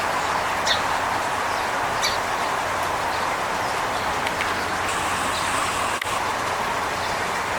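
Scattered short, high bird chirps over a steady outdoor background noise, with a thin, high, steady note lasting about a second just past the middle.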